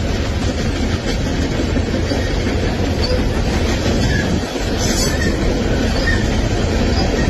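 Train rolling past on its rails: a steady loud rumble of wheels on track, with faint high squeaks about once a second.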